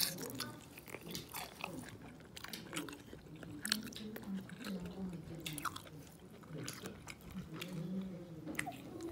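Close-up wet chewing and mouth clicks of someone eating soft simmered fish, with many scattered sharp smacks, over faint background voices.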